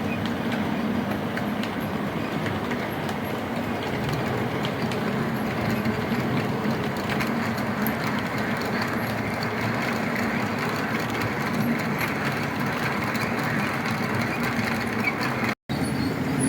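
Model train running on the layout's track: a steady motor hum and wheel rumble on the rails, with faint clicks. The sound drops out briefly about a second before the end.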